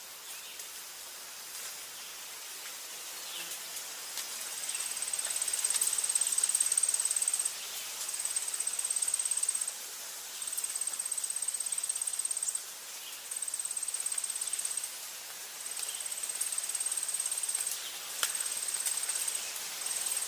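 Insect, cricket-like, trilling on one high pitch in repeated bouts of about two seconds with short breaks, starting about four seconds in, over a steady hiss of forest ambience with a few faint clicks.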